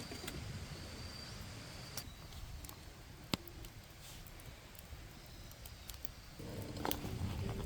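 Campfire burning, with a few sharp pops of wood snapping in the flames over a low steady rumble. Louder rustling starts about six and a half seconds in.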